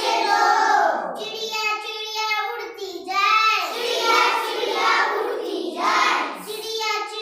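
A child singing a Hindi nursery rhyme in a high voice, in short phrases with brief breaks between them.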